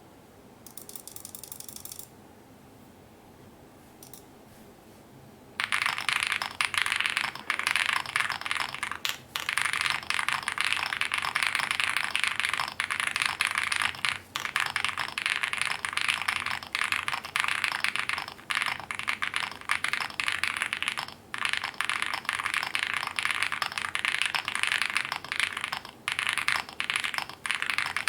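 Typing on an Owlabs Spring mechanical keyboard with lubed and filmed Neapolitan Ice Cream switches and GMK Pixel keycaps. A few light key clicks come first, then from about six seconds in a fast, continuous run of keystrokes with brief pauses. The clatter is loud and poppy.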